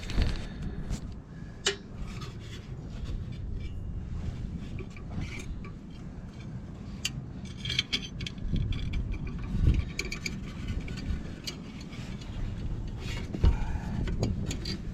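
Hand tools clicking and scraping on the metal parts of a rooftop unit's inducer motor assembly, irregular knocks and rubs over a steady low rumble, with a sharper knock near the end.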